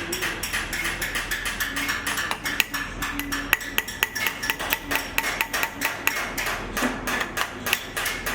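Hammer tapping on sheet copper in quick, even strikes, several a second, each with a brief metallic ring.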